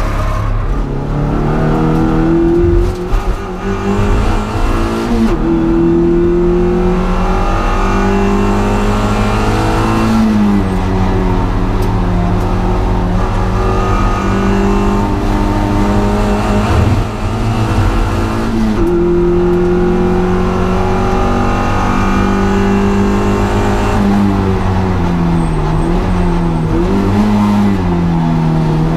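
Honda Integra DC2's four-cylinder engine under hard driving on track, its revs climbing slowly and then dropping sharply several times with gear changes and braking.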